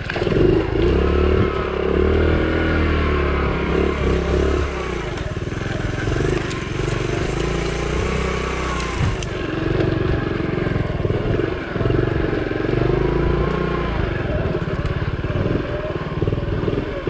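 Honda CT70's small four-stroke single-cylinder engine running at low speed, its pitch rising and falling with the throttle as the bike is ridden slowly over rough ground, with scattered clicks and knocks.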